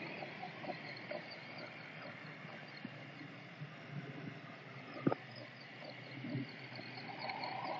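Faint outdoor ambience of insects chirping in a steady, evenly repeating rhythm, with one sharp click about five seconds in.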